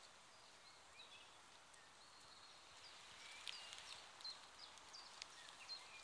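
Near silence: faint forest ambience, a soft steady hiss with scattered short, distant bird chirps, a few more of them in the second half.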